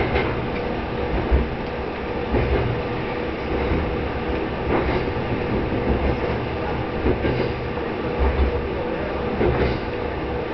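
Tsugaru Railway diesel railcar heard from inside the cabin as it runs along the line: a steady engine and running drone with a faint steady whine, and wheels clacking over rail joints every couple of seconds.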